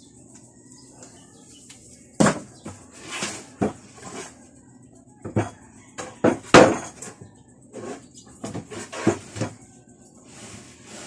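Irregular knocks and clatter of hard objects being handled and set down, over a dozen sharp hits at uneven intervals. The loudest comes about two-thirds of the way through.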